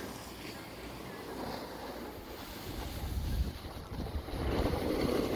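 Wind buffeting the microphone: a rushing, rumbling noise that grows louder about three seconds in.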